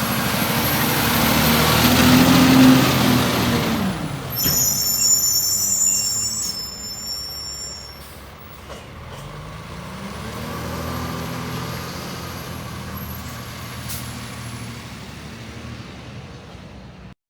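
Peterbilt 520 garbage truck's diesel engine revving up and easing off, with a hiss of air, then a burst of high squealing tones and a second rise in engine speed from about nine seconds in as the truck pulls away. The sound cuts off suddenly near the end.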